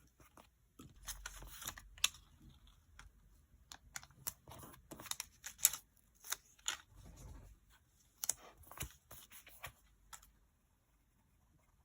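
Paper and stickers being handled at a desk: soft rustling and crinkling broken by sharp little clicks and taps, stopping about ten seconds in.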